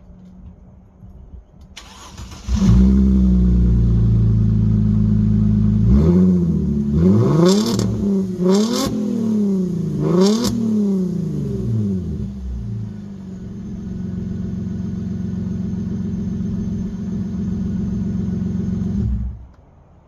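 Straight-piped 2006 Mercedes C230 V6 with resonator and muffler deleted: it cranks and catches about two seconds in, idles, is blipped up three times, settles back to idle and is shut off near the end. The exhaust sounds throaty.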